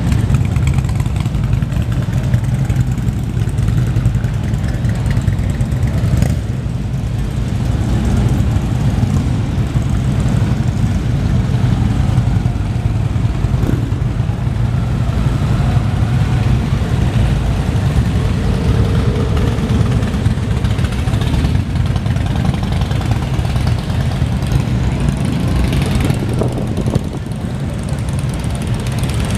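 A group of motorcycle engines running steadily, idling and pulling away, with a constant low engine rumble.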